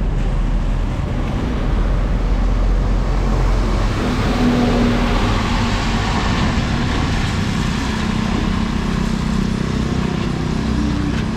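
A motor vehicle's engine running close by over steady street noise, with a low engine note coming in about four seconds in.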